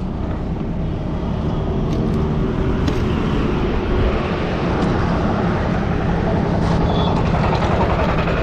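Road traffic running close by: a steady rumble of vehicle engines and tyres that builds over the first few seconds, then holds.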